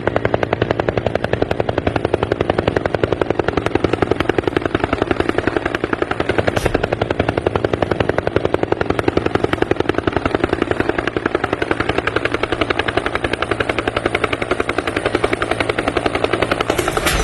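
Helicopter rotor chopping steadily, a rapid, even beat that holds unchanged throughout.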